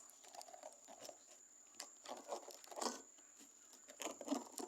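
Utensil stirring and scraping a thick, sticky slime mixture in a container, in irregular strokes with faint crackling and squelching.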